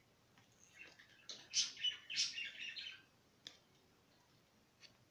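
A small bird chirping in short bursts, then a single click a little over three seconds in.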